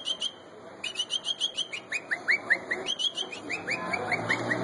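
A man whistling an imitation of a songbird: quick runs of short high chirps, about six a second, with a brief pause about half a second in. Near the end these turn into a string of short, falling whistled notes.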